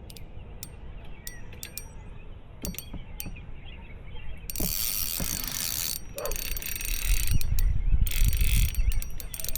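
Fishing reel drag giving line to a hooked flathead catfish fighting on 10-pound test. Scattered clicks at first, then the drag buzzes in two sustained runs, at about four and a half seconds and again near the eight-second mark, over low rumbling.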